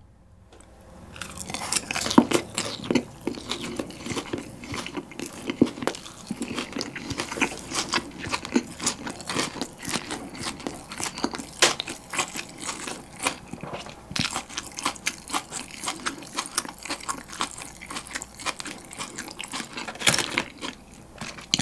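Close-miked chewing of boneless fried chicken topped with raw shredded green onion: crisp, crackly crunching bites, starting about a second in and continuing steadily.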